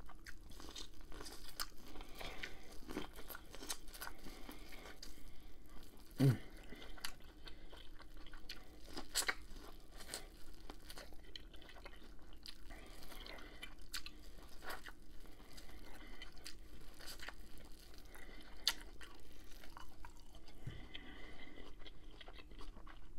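Close-miked chewing and biting of corn on the cob: crisp crunches and wet mouth clicks scattered throughout, with a brief low thump about six seconds in.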